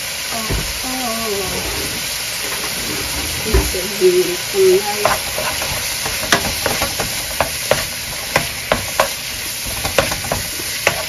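Chopped kimchi and diced ham sizzling in a nonstick wok while being stirred with a wooden spoon. From about halfway through, the spoon scrapes and taps against the pan in frequent sharp clicks over the steady sizzle.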